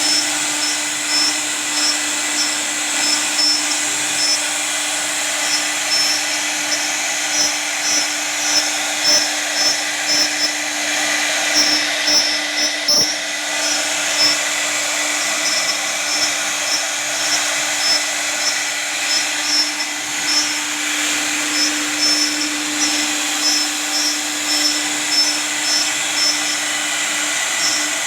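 High-speed CNC router spindle running and cutting: a loud, steady machining noise over a constant hum, swelling slightly at regular intervals as the tool works.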